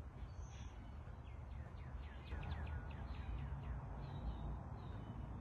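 A small bird chirping in a quick run of short falling notes, over a steady low rumble of outdoor background noise.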